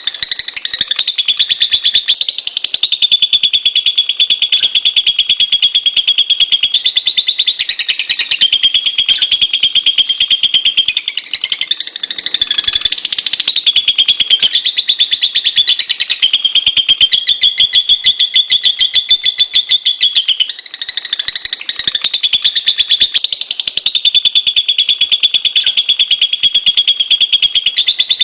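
Lovebird chattering: a continuous stream of rapid, shrill, high-pitched notes, with brief breaks about 12 and 21 seconds in.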